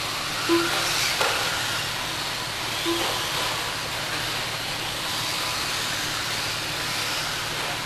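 Steady hissing background noise, with two short low beeps and a brief falling whine about a second in.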